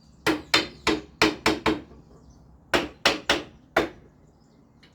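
Hammer striking in two quick runs of sharp blows, six and then four, the second run starting about a second after the first ends.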